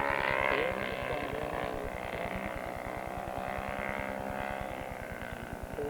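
Radio-controlled model Douglas Dakota flying past on its two O.S. 120 Surpass four-stroke glow engines, running steadily and slowly fading as it moves away.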